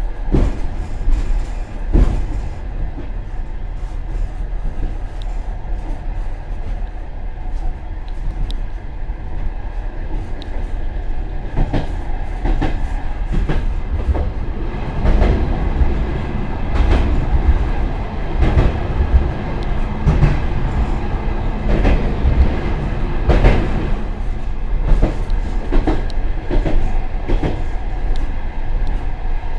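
An express passenger train running, heard from the rear vestibule of its last coach: a steady heavy rumble with wheels clicking over rail joints. The clicks come more often in the second half.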